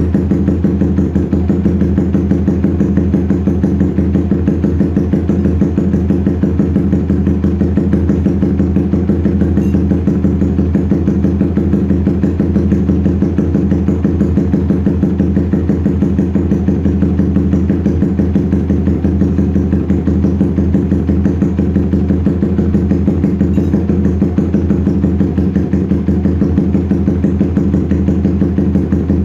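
Motorcycle engine idling steadily while warming up, through an SC Project S1 racing exhaust with its dB killer baffle removed.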